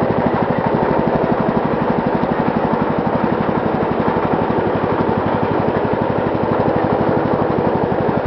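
Riding lawn mower's 16.5 horsepower overhead-valve engine with a cast-iron cylinder sleeve, running at a steady speed with an even, rapid firing beat.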